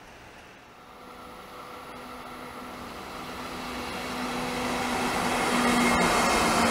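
Electric trains running on a multi-track main line, among them an EF64 electric locomotive. The rolling rail noise and a steady electric hum grow steadily louder as the trains approach, with a couple of faint clicks.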